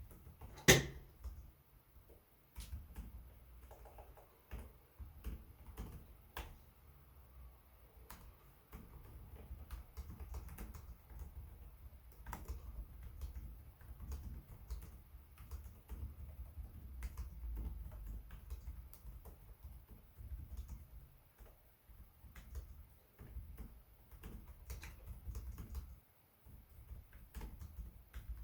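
Typing on a Lenovo Legion 5 Pro laptop keyboard: irregular runs of key clicks broken by short pauses, with one sharp, much louder click about a second in.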